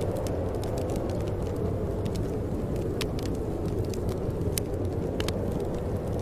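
Wood fire burning in a fireplace: a steady low rumble of flames with scattered sharp crackles and pops, the loudest about three seconds in and again a second and a half later.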